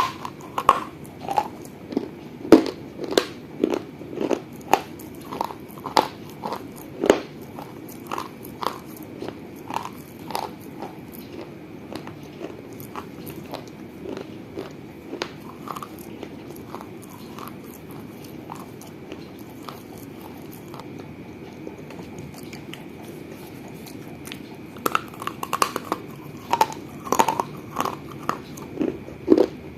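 Close-up biting and chewing of pieces of a small baked-clay piggy bank (gullak), with hard crunches coming quickly at first, then softer and sparser chewing through the middle, then quick crunches again near the end. A faint steady high whine runs underneath.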